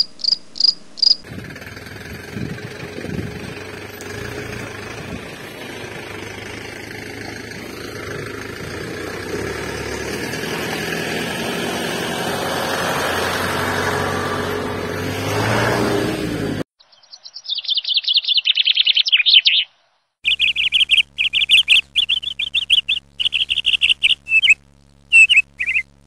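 Birds chirping in short, high bursts, a few at the start and densely through the second half, later over a low steady hum. In between, a long steady rushing noise slowly grows louder and then cuts off suddenly.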